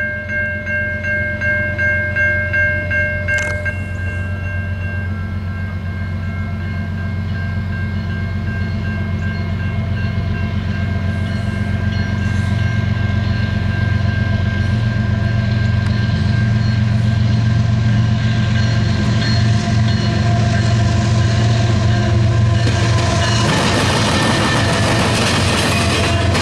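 A grade-crossing warning bell rings for the first few seconds and then stops. A GE ES44AC diesel locomotive's low engine rumble builds as it approaches and passes. Near the end, the louder rolling wheel-on-rail noise of double-stack intermodal well cars takes over.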